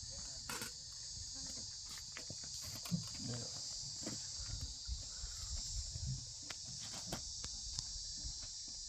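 Steady high-pitched insect chorus, with scattered clicks and a few low thuds.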